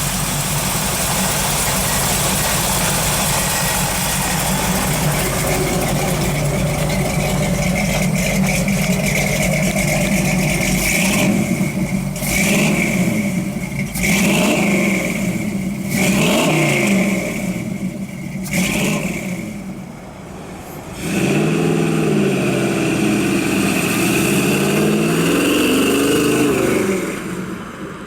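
A 1962 Chevrolet Corvette's 327 V8 with a four-barrel carburettor, running steadily just after starting. It is given several short blips of the throttle midway and then a longer rev that falls and rises again near the end.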